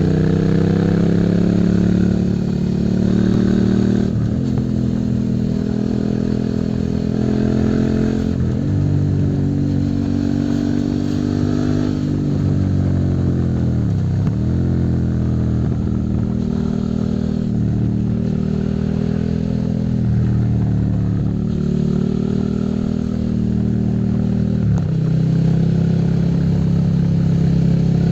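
Suzuki SV650's 90-degree V-twin engine under way, its pitch climbing and dropping back several times as it pulls and shifts gear, with a deep dip about fourteen seconds in as it slows and then pulls away again.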